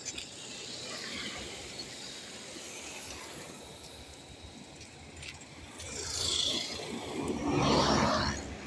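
Highway traffic: two vehicles pass close by in the second half, each a swell of tyre and engine noise that rises and fades, the second the louder, over a low hum of more distant traffic.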